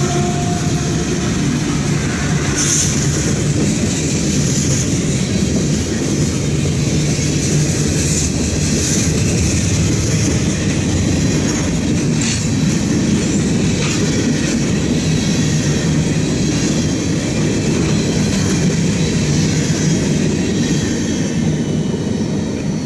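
CSX freight train rolling past close by, its last diesel locomotive followed by boxcars and covered hoppers: a steady loud rumble of steel wheels on rail, with clickety-clack over the rail joints and a thin high wheel squeal at times.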